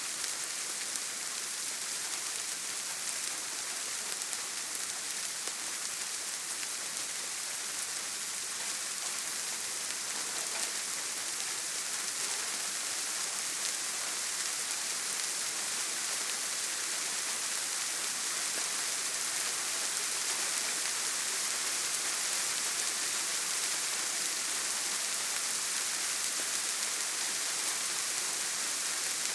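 Steady heavy rain falling on a tin roof: a dense hiss with scattered sharp drop ticks, growing slightly heavier in the second half.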